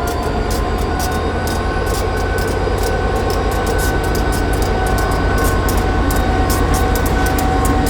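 CSXT track geometry train, a locomotive hauling three cars, rolling on the rails: a steady low rumble with high steady tones over it and a quick scatter of clicks, growing slowly louder.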